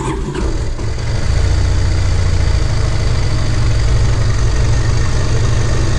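Yamaha Fazer 250 single-cylinder engine starting up and settling into a steady idle within about a second, running with its valve cover off just after a top-end rebuild.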